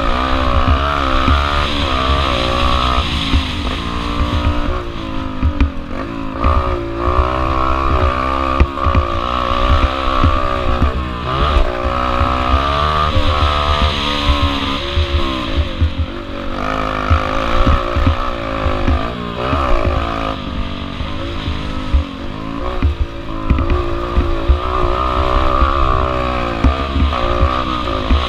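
Yamaha TTR125L pit bike's single-cylinder four-stroke engine under race load, its revs rising and falling repeatedly through gear changes and corners, with heavy low buffeting underneath.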